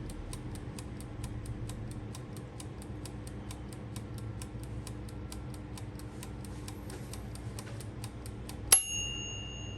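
Mechanical dial timer ticking steadily at about five ticks a second, then its bell dings once near the end and rings on: the timer has run out.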